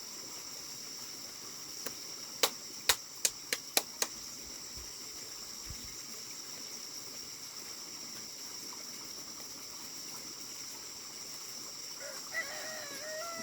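A rooster crows near the end, over a steady high-pitched hiss. A quick run of about seven sharp knocks comes between two and four seconds in.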